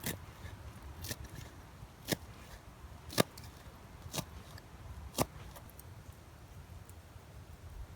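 Six sharp knocks, about one a second, that stop a little past halfway, over a steady low rumble of wind.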